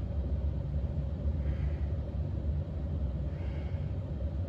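Steady low background rumble with a faint steady hum, and two faint breaths from a man resting between exercise sets, about a second and a half in and again near the end.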